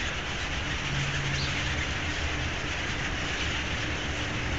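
Steady dense chatter of a huge flock of birds, heard as one continuous din over a low rumble.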